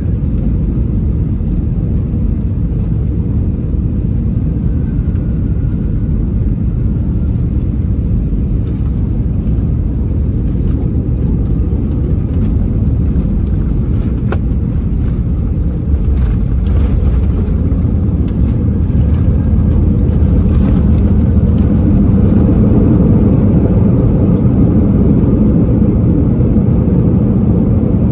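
Airbus A321 cabin noise on arrival: a steady, low rumble of engines and airflow. It steps up suddenly in loudness a little past halfway and stays louder, with faint light rattles over it.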